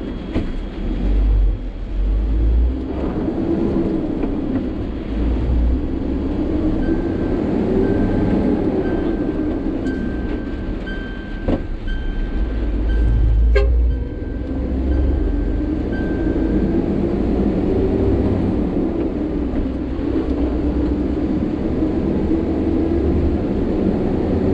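Sany 6x4 dump truck's diesel engine running under way, its pitch rising and falling several times as it pulls through the gears. Through the middle there is a row of short, evenly spaced high beeps, about one a second, and a couple of sharp clicks.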